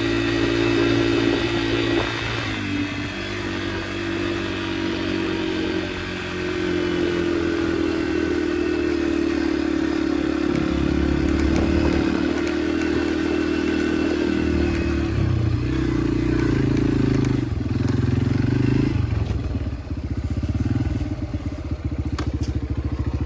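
Yamaha dirt bike engine running while being ridden on a trail, its note rising and falling several times with the throttle. Near the end there are a few sharp clicks.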